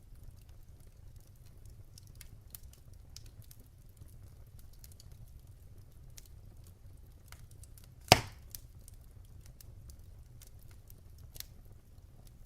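Wood fire of burning logs crackling with sparse faint ticks and snaps over a low steady rumble, and one loud pop about eight seconds in.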